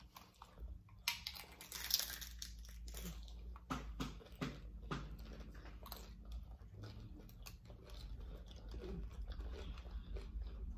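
Close-up chewing and biting of crunchy hard-shell tacos: a steady run of crisp crackles and crunches, busiest about two seconds in.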